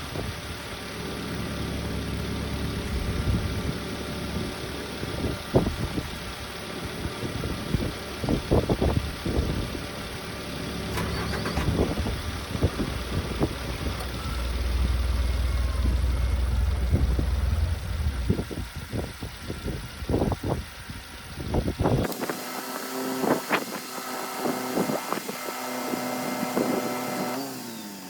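Subaru Sambar mini truck's engine running, with scattered knocks and clicks over it. About 22 seconds in the sound changes abruptly to a steadier hum, with a falling pitch near the end.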